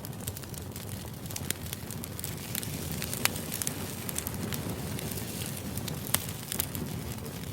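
Steady white-noise background with irregular sharp crackles and clicks scattered through it.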